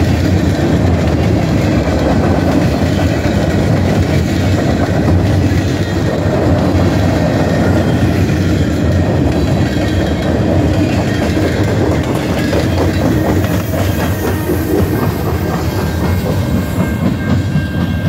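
Freight train of coal hopper cars rolling past at close range, a steady loud clatter of steel wheels running over the rail joints.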